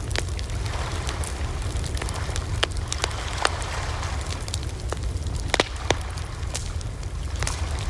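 Campfire crackling: irregular sharp pops and snaps of burning wood, several a second, over a steady low rumble and soft hiss of the flames.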